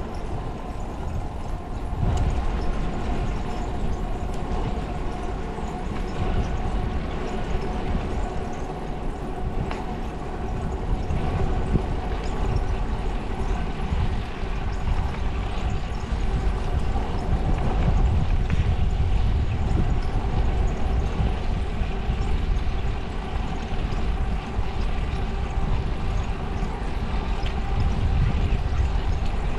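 Wind rumbling on the microphone during a bicycle ride, with steady road noise and a faint steady hum.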